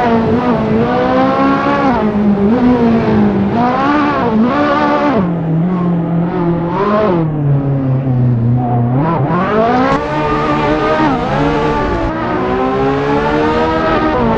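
High-revving sports car engine pulling hard and easing off, its revs climbing and dropping again and again through the gear changes. It settles to low revs for a few seconds in the middle, then picks up sharply about nine seconds in.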